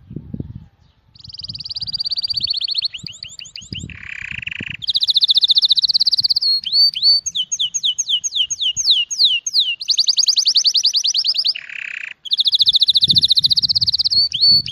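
A songbird singing a long, varied song: fast trills held on one high pitch, runs of quick falling slurred notes, and short lower buzzy phrases. Soft low thumps sound underneath at the start and near the end.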